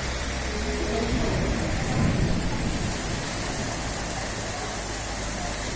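Heavy rain falling and splashing on surfaces, a steady hiss, with a brief low rumble about two seconds in.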